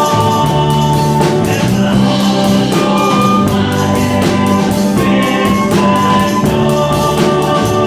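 A band playing a folk-rock song, with sustained chords over an even strummed and drummed beat and voices singing.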